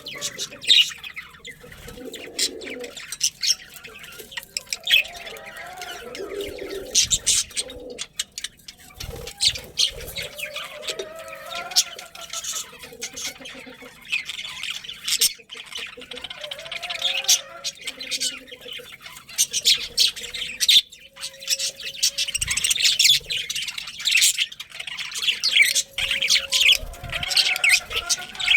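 A flock of budgerigars chirping and warbling together in a continuous chatter of quick, high chirps over lower, wavering warbles.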